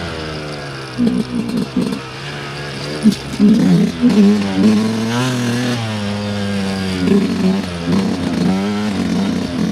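Dirt bike engine on a trail ride, the revs rising and falling repeatedly as the throttle is worked, with several sharp knocks and clatters in the first half from the bike going over rough ground.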